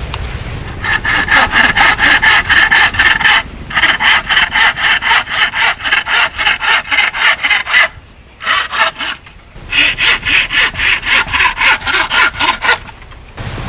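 Hand saw cutting wood, in quick back-and-forth strokes of about four a second, in three runs with short pauses between them.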